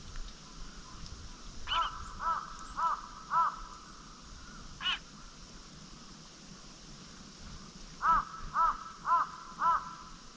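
A crow cawing in two runs of four harsh caws each, about two a second, with a couple of single calls between them.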